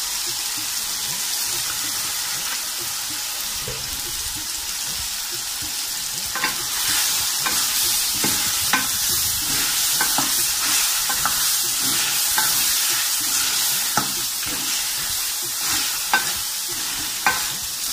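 Chicken karahi frying in a metal pan over a high gas flame, a steady sizzle throughout. From about six seconds in, a wooden spoon stirs the masala and chicken, scraping and knocking against the pan at irregular intervals.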